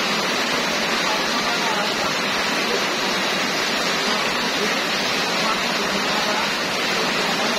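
Heavy rain pouring down steadily, a dense, even hiss of falling drops.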